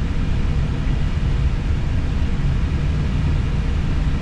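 Steady low rumble of an Airbus A320 taxiing after landing, heard from inside the cockpit.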